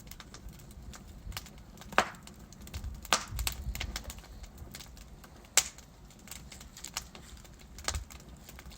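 Wood fire crackling in a fireplace, with scattered sharp pops from the burning logs over a soft low rustle of the flames. The loudest pops come about two seconds in and again just past the middle.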